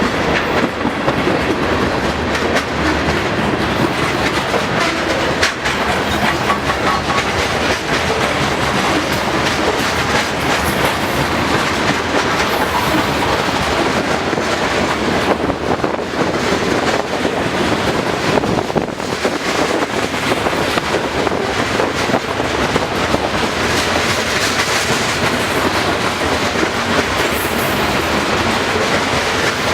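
Freight cars of a manifest train rolling past close by: a steady rumble of steel wheels on rail, with repeated clicks as the wheels cross rail joints.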